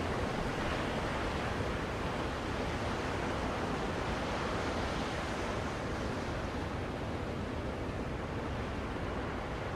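Ocean-wave white noise: an even, steady rush of surf, used as a soothing sleep sound for a baby.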